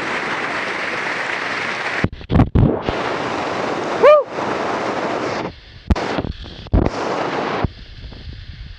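Steady rush of waterfall water, then a run of muffled low thumps and sudden drop-outs as the action camera dips into the water and out again; one short shout about four seconds in, and the sound turns dull and muffled near the end.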